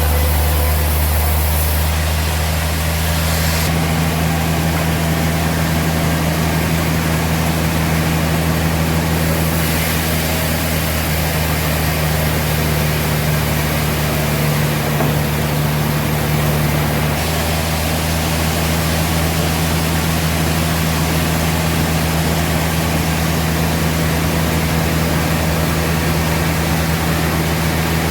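Steady low mechanical hum of running sawmill machinery, its tone shifting abruptly a few times.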